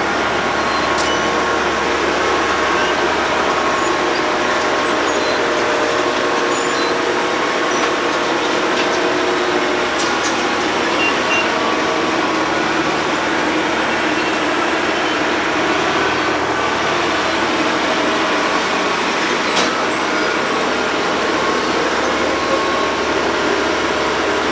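Road planer (cold milling machine) running steadily as it mills the road surface: a continuous heavy machine noise with steady engine tones and a few sharp clicks.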